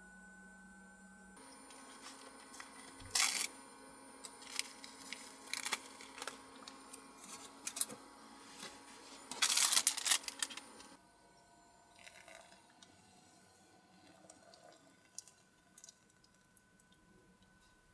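Close handling noise: irregular rustling and crinkling with a sharp crackle about three seconds in and a longer, louder burst just before the middle. It then drops to a few faint scattered clicks.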